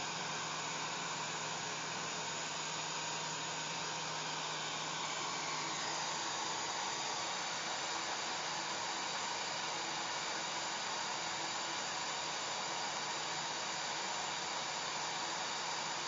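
Hair dryer running steadily: a constant rush of blown air with a faint low motor hum that fades about six seconds in.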